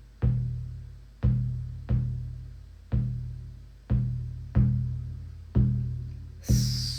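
Shamanic frame drum beaten slowly, about one deep strike a second, each boom ringing on and fading before the next. A hissing sound joins near the end.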